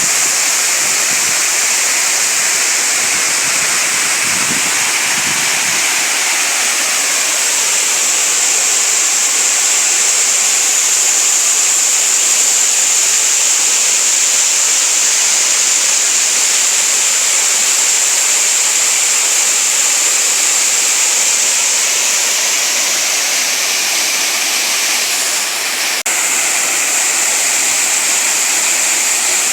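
Waterfall running, a steady, loud rush of falling and splashing water. The sound dips slightly for a moment near the end, then resumes.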